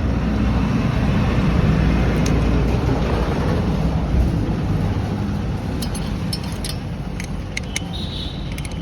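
A motor vehicle's engine rumbles close by, getting louder over the first few seconds and then slowly fading. A few light, sharp clicks come near the end.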